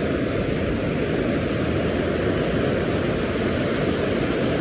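Steady wind and surf noise at the shoreline, a constant even rush with no distinct events.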